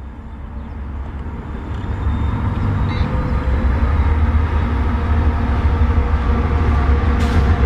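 Diesel locomotive approaching, its engine rumble growing steadily louder.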